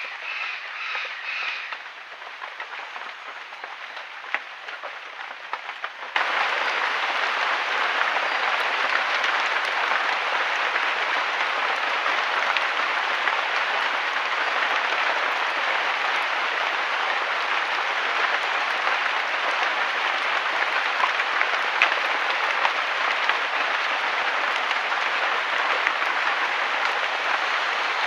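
Steady, loud hiss of heavy rain, starting abruptly about six seconds in after a quieter stretch that opens with a short run of rhythmic chirps.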